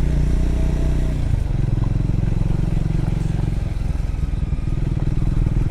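Triumph Scrambler motorcycle engine running under way on a gravel road, its note changing about a second and a half in.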